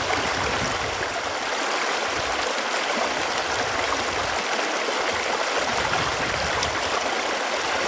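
Running water flowing in a steady, even rush.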